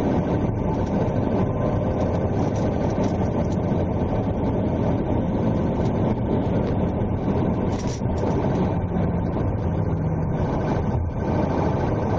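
Steady engine drone with a dense low rumble, heard from inside the pursuing police unit. A brief hiss comes about eight seconds in.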